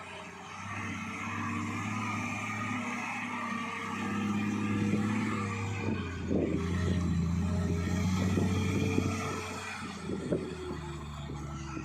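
Heavy truck's diesel engine running under load, getting louder about four seconds in, with scattered knocks and rattles from about six seconds on.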